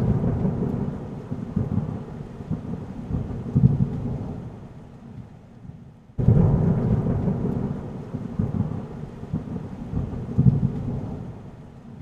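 Thunder rumbling with rain, played twice: each peal starts loud and fades away over about six seconds, the second starting abruptly about halfway through.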